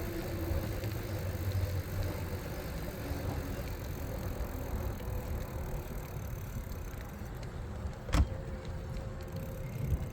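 Steady low rumble of an e-bike riding along: wind on the microphone and road noise, with a single sharp click or knock about eight seconds in.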